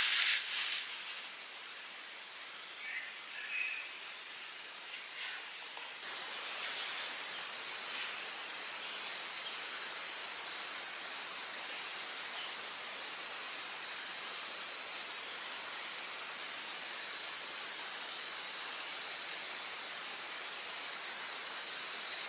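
Insects in a forest, chirring in one steady, continuous high-pitched trill that swells and fades slightly. A loud hiss dies away in the first second.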